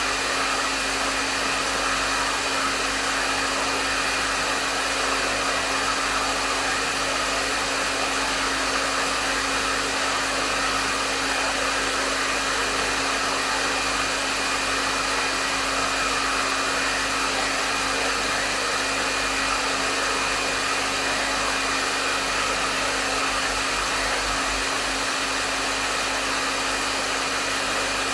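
Hair dryer running steadily at medium setting: a constant rush of airflow with a steady motor hum and whine under it.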